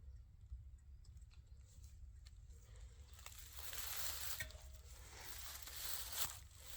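Rustling and crunching in dry forest litter, growing louder about three seconds in, with scattered small cracks of twigs.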